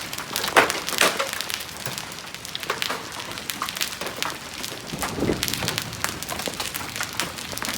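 Hailstones pelting down, a dense crackle of hard clicks and knocks on the surfaces around, with one deeper thud about five seconds in.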